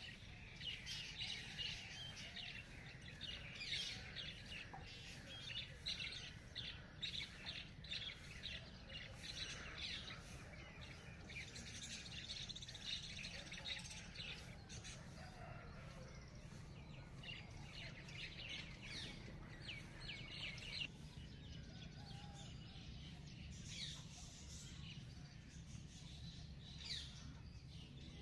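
Songbirds chirping and twittering, with many short calls overlapping. The calls are busiest through the first half and thin out for the last several seconds, over a low steady background rumble.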